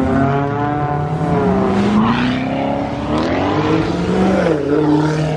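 A performance car's engine accelerating hard as it leaves, its pitch rising for about three seconds, then dropping sharply about four and a half seconds in before holding steady.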